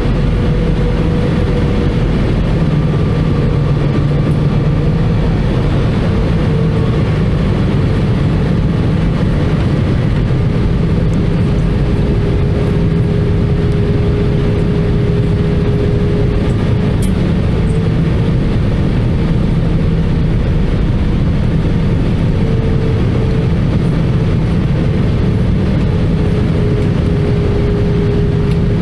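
Steady cabin noise inside an Airbus A320-214 in flight: a deep, even rumble of its CFM56 engines and airflow over the fuselage, with a steady hum that wavers slightly in pitch.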